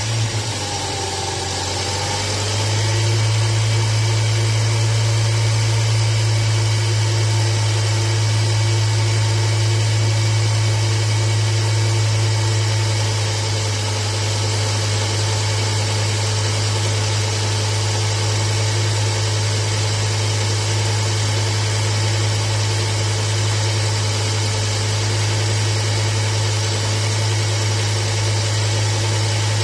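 Volvo 850 2.0 10V straight-five petrol engine idling; its speed shifts in the first couple of seconds and then holds a steady idle. The idle air control valve is suspected faulty.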